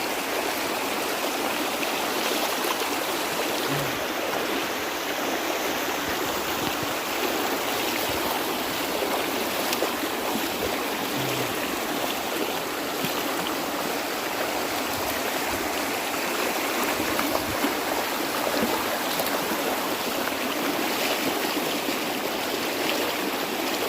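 Floodwater flowing steadily, an even rushing of water.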